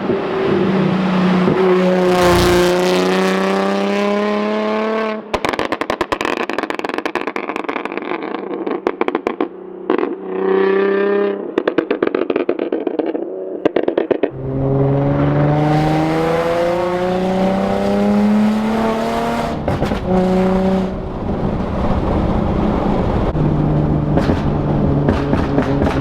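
2006 Infiniti G35 Coupe's 3.5-litre V6 through a Tomei single-exit exhaust with test pipes, pulling with a rising note. It then lets off into a long spell of crackling and popping, pulls again with a brief break near the middle of the climb like a gear change, and settles into a steady low drone.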